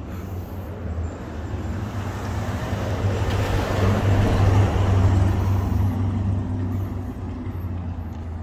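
A road vehicle driving past: tyre and road noise builds to a peak about halfway through and then fades, over a steady low rumble.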